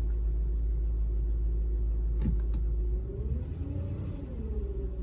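2004 Audi S4's 4.2-litre V8 running with a steady low rumble, with a few sharp clicks about two seconds in. From about three seconds the engine note rises and falls.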